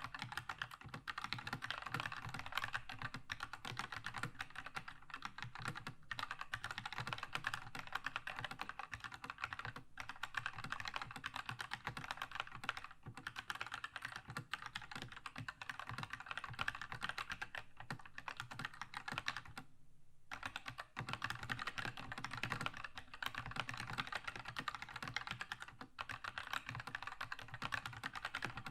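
Continuous fast typing on a Keychron K2 mechanical keyboard with red linear switches, key strokes running together, with a few brief pauses and one longer break about two-thirds of the way through.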